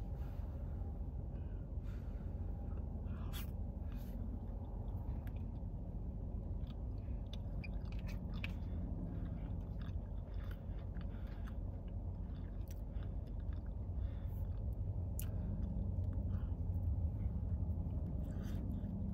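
A person chewing food, with short clicks and scrapes of a fork on a paper plate, over a steady low hum.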